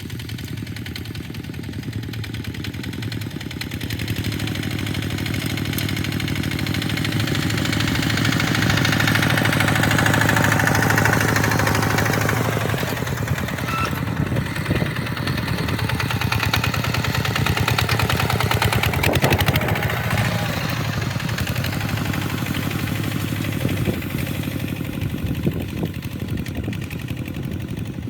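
Tractor engine running steadily while plowing sand, growing louder over the first ten seconds or so, easing off, then swelling again later.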